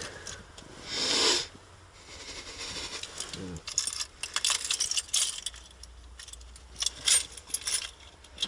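Irregular light clicks and small metallic rattles, like small hard objects being handled, thickest in the second half, with a short hiss about a second in.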